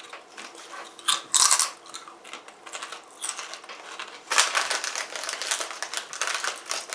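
Crisp clicks and crackles of kettle-cooked potato chips being handled, then bitten into and chewed, with a dense crunching from about four seconds in.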